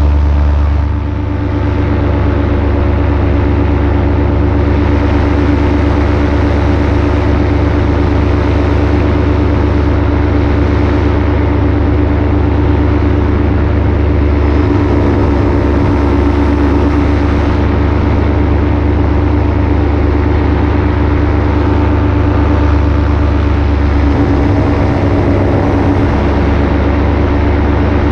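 Paramotor engine and propeller running steadily in flight, a loud, even drone that holds at one pitch.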